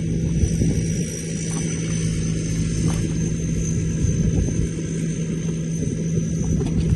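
A small engine running steadily, a constant low drone without change.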